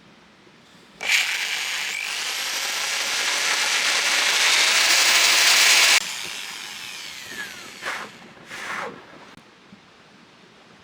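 An electric power tool starts about a second in and runs for about five seconds, its pitch creeping upward. It is then switched off and winds down with a falling whine. Two short bursts of the tool follow near the end.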